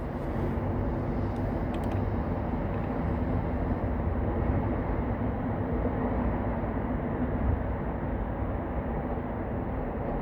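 Steady low rumbling noise with a faint hum in it and no distinct events, a mechanical or traffic-like ambient noise.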